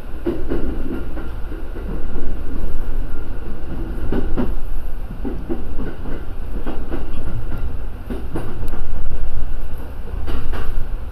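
Electric commuter train running slowly through a track-work speed restriction, heard from inside the driver's cab: a steady low rumble with irregular sharp wheel clacks over the track.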